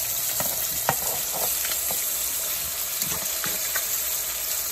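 Fish fillets and shrimp frying in hot oil in a nonstick pan: a steady sizzle. A spatula scrapes and nudges the fish, with scattered clicks and a sharper one about a second in.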